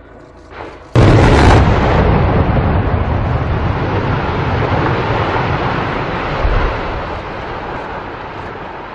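Controlled demolition of a concrete high-rise: the charges go off with a sudden loud blast about a second in, followed by a long low rumble that slowly fades as the tower gives way.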